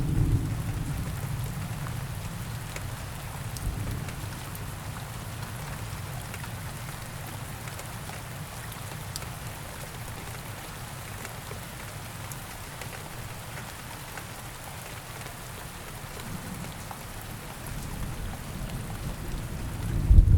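Steady rain falling in a forest, an even hiss with scattered drops. A low rumble of thunder dies away over the first couple of seconds, and another rolls in near the end, growing loud.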